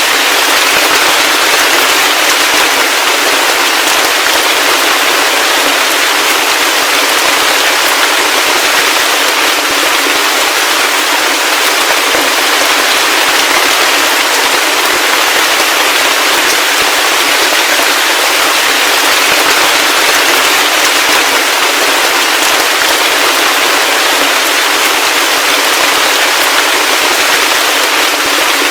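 Heavy rain falling steadily: a loud, even hiss of dense, crackling drops with almost no bass.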